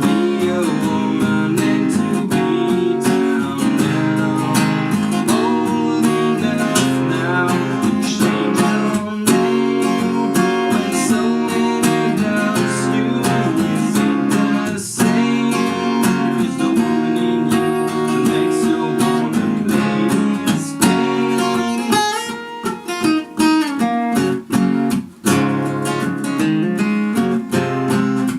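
Handmade acoustic guitar played solo, strummed and picked chords in an instrumental passage. Near the end the playing thins out, with short breaks between chords.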